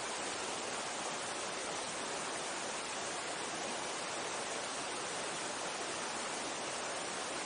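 Mountain stream water rushing with a steady, unchanging wash.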